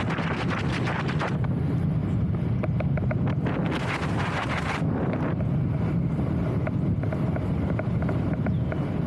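Strong wind buffeting the microphone, a steady low rumble, with many light, quick ticks over it and a brief gust of hiss about four seconds in.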